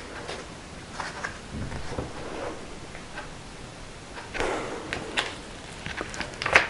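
Paper handling of a handmade journal: soft rustles of pages and paper inserts being moved, with small scattered taps and clicks.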